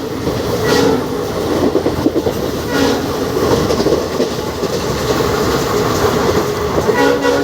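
Train hauled by twin WDP4D diesel locomotives running at speed: a steady loud rumble with wheels clattering over rail joints. Short tonal notes come in three times, about a second in, near three seconds and near the end.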